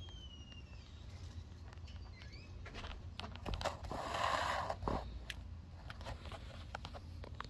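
Outdoor background with a bird chirping briefly at the start and again about two seconds in, scattered small clicks, and a short rustle a little past halfway.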